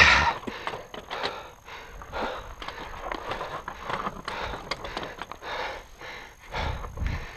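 Fat bike rolling over rough, rocky trail: tyre crunch and rattle with many sharp knocks, a loud jolt right at the start.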